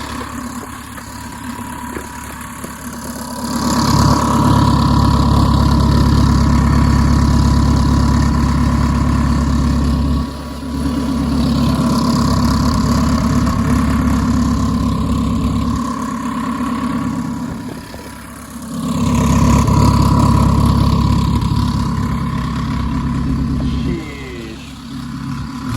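Big-turbo Dodge SRT-4's turbocharged 2.4-litre four-cylinder engine running, held at a fairly steady speed, growing louder about three seconds in and dipping briefly a few times between longer loud stretches.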